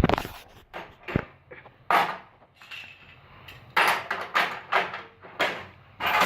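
Metal knocks, clinks and short scrapes of tools and bicycle parts being handled while working on the bicycle's kickstand, in irregular strokes with quiet gaps between.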